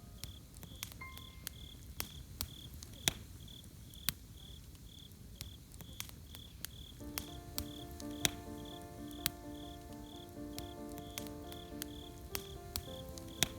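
Campfire crackling with irregular sharp pops over a low hiss, with crickets chirping steadily about three times a second. Soft background music enters about halfway through as a sustained chord of tones.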